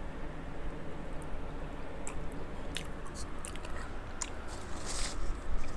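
A person chewing and biting food close to the microphone, with sharp wet clicks and crackles from about two seconds in. A fan hums steadily underneath.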